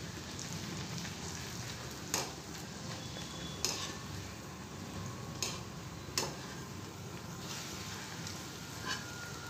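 A round bread slice frying in hot oil in a metal kadhai, a steady sizzle, with a wire spider skimmer clinking sharply against the pan several times as the bread is turned and lifted out.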